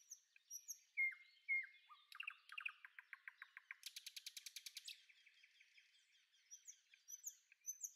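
Faint bird song: short high chirps and whistled notes, with a rapid trill about halfway through and more chirps near the end.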